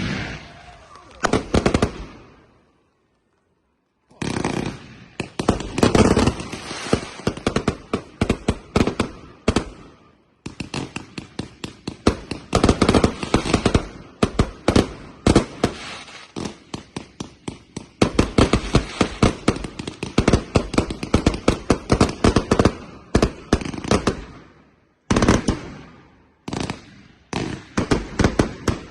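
Fireworks going off in long, rapid volleys of sharp bangs, several a second, with a few short pauses between volleys.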